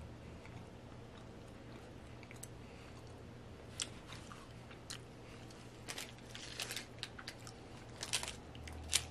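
Faint crunching and chewing of a crumbly Cadbury Flake chocolate bar. Scattered crisp clicks come more often in the second half.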